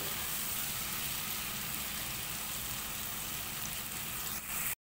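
Chopped onion, capsicum and tomato sizzling steadily in oil in a frying pan. The sound cuts off suddenly near the end.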